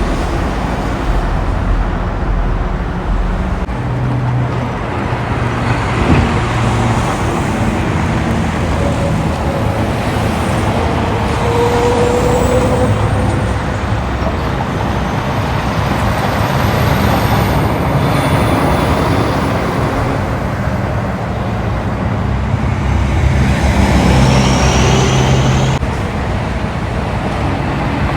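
Steady road traffic with heavy diesel semi-trucks running past one after another, their engines and tyres making a continuous loud roar. A faint high whine rises near the end.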